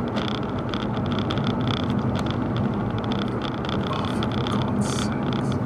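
Nissan GT-R's 3.8-litre twin-turbo V6 running steadily while driving in city traffic, with road noise.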